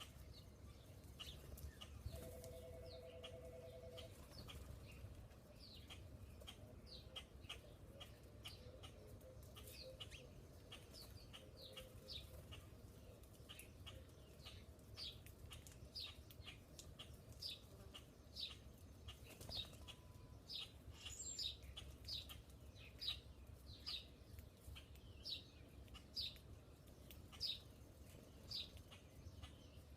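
Small bird chirping over and over: short, high, falling chirps, about one to two a second, faint against a low background rumble. A brief steady hum sounds a couple of seconds in.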